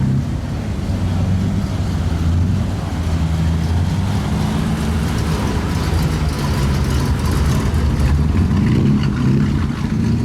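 A car engine running steadily at low revs, with a slight change in pitch near the end.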